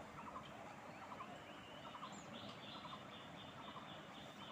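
Faint animal calls: short rattling calls of a few quick pulses repeat about once a second, and a high thin buzz joins about two seconds in.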